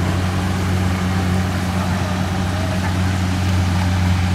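Kubota DC70 combine harvester's diesel engine running steadily at a constant speed.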